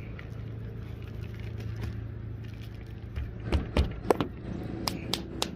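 Steady low hum, with a run of about seven sharp taps and knocks in the last two seconds.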